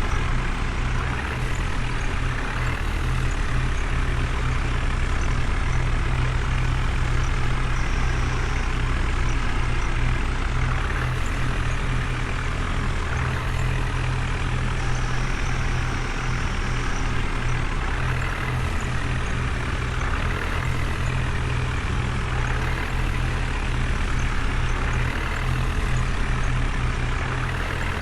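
Heavy vehicle's diesel engine running steadily at an unchanging speed.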